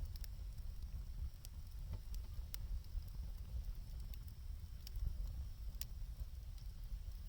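Bonfire of lumber burning, giving scattered sharp crackles and pops at irregular intervals over a steady low rumble.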